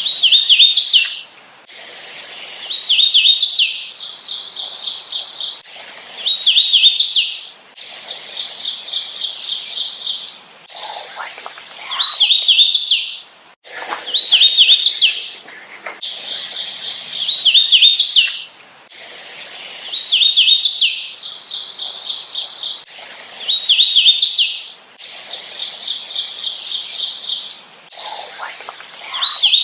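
Hooded warbler singing over and over: short phrases of clear, slurred whistled notes, each ending in a higher emphatic note, about every two to three seconds. Between the phrases come quicker, even series of repeated notes.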